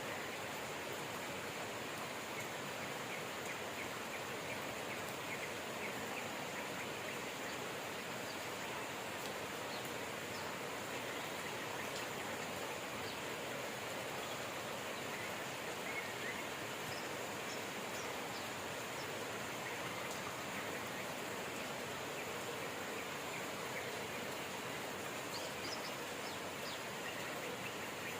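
Steady rain falling, with faint birds chirping here and there, more of them near the end.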